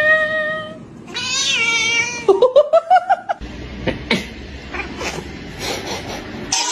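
A cat meowing in long drawn-out calls: one held call, a second that falls in pitch, then a wavering, rising yowl about two to three seconds in. Scattered clicks and knocks follow.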